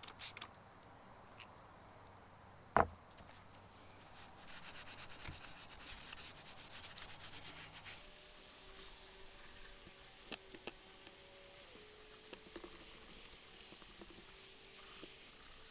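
An SOS steel-wool soap pad scrubbing an aluminum motorcycle engine case half: a steady, scratchy rubbing that starts about four seconds in. A single sharp knock comes just before it.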